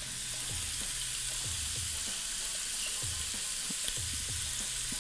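Chopped onion and crumbled Maltese sausage sizzling steadily in butter and rendered sausage fat in a pot over low heat, the first stage of a risotto.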